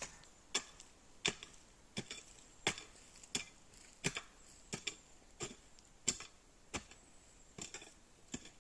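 A digging hoe striking into soil and roots in a steady rhythm, about three sharp chops every two seconds.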